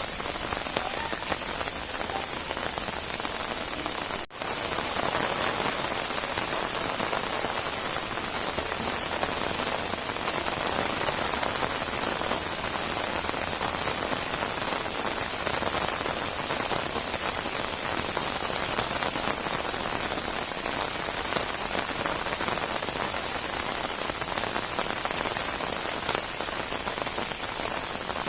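Rain falling steadily on a surface, a dense, even hiss that is brightest in the high end. The sound drops out for a split second about four seconds in.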